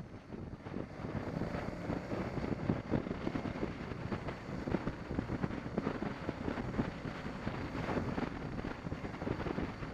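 Wind rushing and buffeting over the microphone of a moving motorcycle, with the bike's engine running underneath. The gusting is steady throughout.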